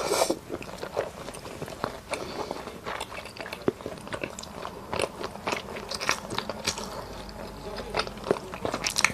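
Close-up eating sounds: a person biting and chewing food, with many small irregular clicks and smacks.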